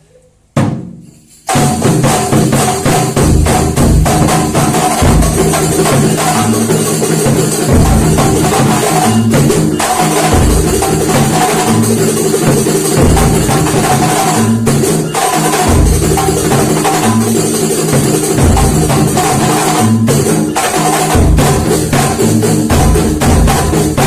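Kuntulan percussion ensemble playing a fast, dense rhythm on frame drums with jingles and deep drum strokes, coming in at full volume about a second and a half in.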